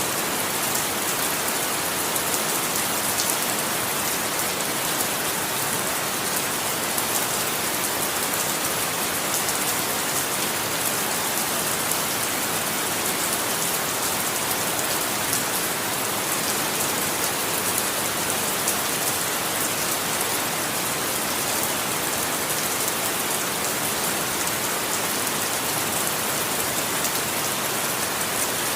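Steady rain falling, with a dense hiss of drops on a surface.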